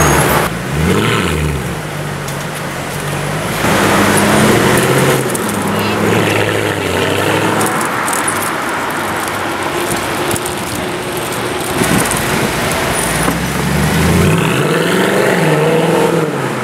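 Mercedes-Benz C63 AMG Coupe's V8 exhaust revving and accelerating hard, the engine note rising and falling twice, with a steadier stretch of engine noise in between.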